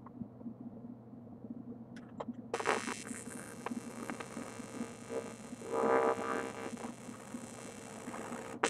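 AC TIG arc from an Eastwood TIG 200 tack-welding aluminum: a few clicks, then the arc strikes about two and a half seconds in and buzzes for about six seconds, louder midway, cuts off, and strikes again briefly at the end.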